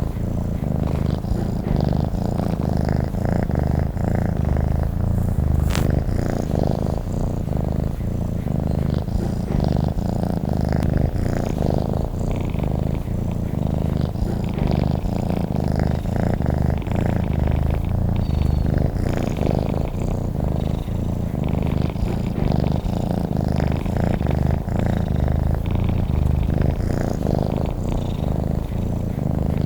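Domestic cat purring steadily, a continuous low, evenly pulsing rumble.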